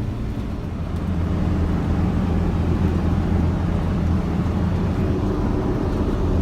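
Vehicle engine and road noise as a steady low hum, growing a little louder about a second in.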